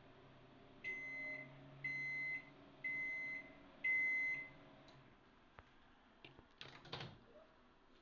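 Samsung microwave oven sounding four even, high beeps about a second apart, the end-of-cycle signal, as its low running hum dies away. A short clatter of clicks follows near the end.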